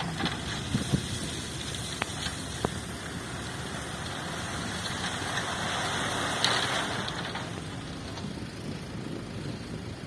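Dump truck running, with a rushing hiss that swells for a few seconds midway and then fades, and a few scattered clicks.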